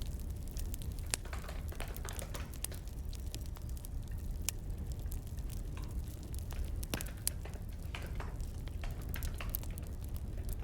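Crackling wood fire: irregular pops and snaps over a low, steady rumble.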